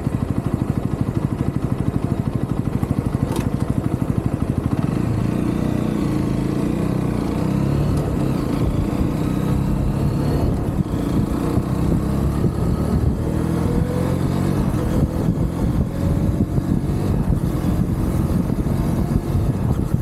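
UM Renegade Commando 125 motorcycle's small single-cylinder engine running. It has an even, fast pulse for about five seconds, then its revs rise and it keeps running under load as the bike rides on.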